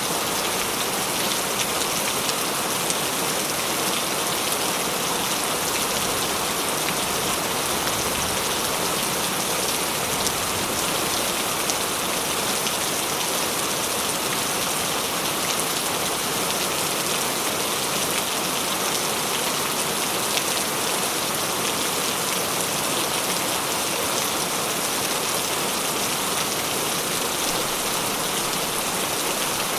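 Steady rainfall, a continuous hiss of rain with many fine individual drop ticks on a surface.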